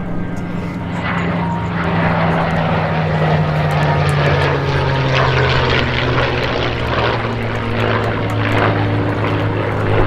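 P-51 Mustang's Merlin V-12 and F4U Corsair's Pratt & Whitney R-2800 radial engines running together in a low formation pass. The loud propeller drone swells over the first couple of seconds, then its pitch slowly drops as the pair goes by.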